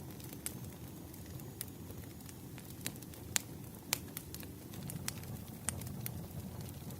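Campfire burning with a low, steady rumble of flame and irregular sharp crackles and pops from the burning wood, two of the loudest pops coming about three and a half and four seconds in.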